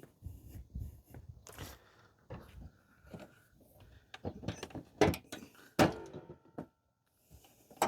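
Irregular clunks, knocks and rattles of a dented car front fender being worked back into place by hand, with a brief metallic squeak about six seconds in.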